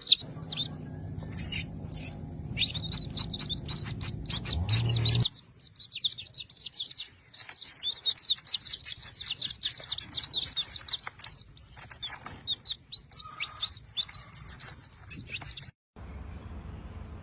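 Small birds chirping and twittering, many rapid high chirps with brief gaps, over a low steady hum for the first five seconds. The chirping cuts off suddenly near the end, leaving a low steady rumble.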